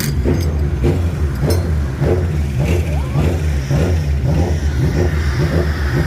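Touring car engines running on the starting grid: a steady deep rumble with uneven pulses and revs.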